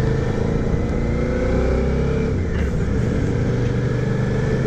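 Motorcycle engine running while riding along a street, its pitch rising a little in the first couple of seconds and then holding steady.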